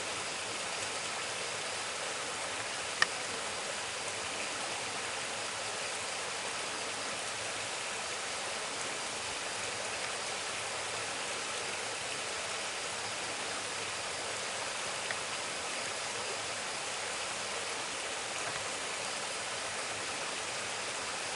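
Mountain stream rushing steadily over a rocky bed, an even rushing sound with one sharp click about three seconds in.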